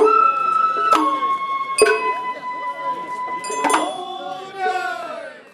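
Japanese festival hayashi music: a bamboo flute holding long notes that step up, back down, and fall away near the end, with a struck metal gong and drum sounding about once a second. Crowd voices run underneath.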